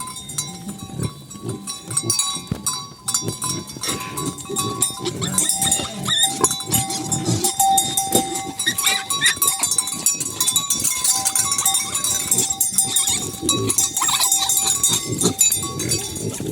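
Farm livestock calling and moving, with bell-like ringing tones and a constant high hiss throughout.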